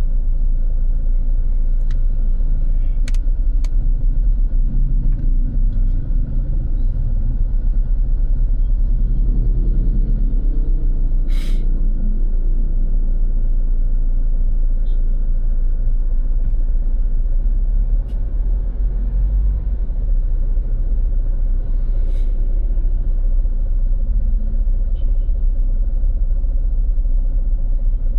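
Steady low rumble of road traffic, with a few short sharp noises and a brief hiss about a third of the way through.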